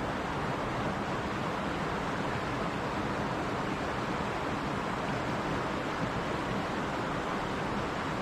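Mountain stream rushing steadily over rocks, an even, unbroken wash of water noise.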